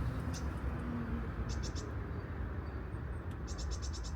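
A small bird calling in quick runs of short, high notes, a few about a second and a half in and a longer run of six or seven near the end, over a steady low rushing background.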